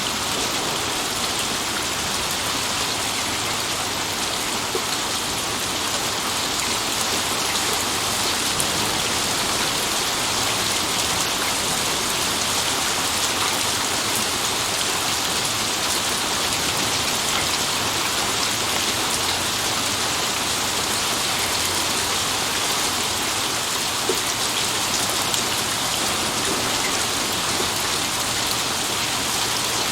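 Steady rain falling, an even hiss of many drops pattering on a surface, with a few louder individual drop ticks.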